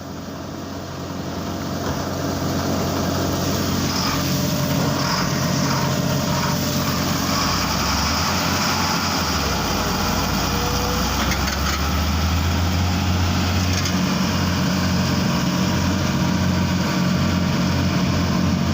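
Excavator's diesel engine running with a steady low drone that grows louder over the first two seconds, then holds. It is running again after a clogged diesel supply that made it misfire was cleared.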